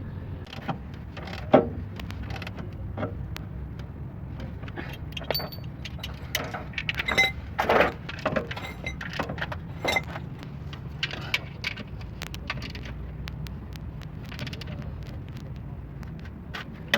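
Scattered metallic clinks and clanks, loudest about a second and a half in and bunched together around the middle, over a steady low hum.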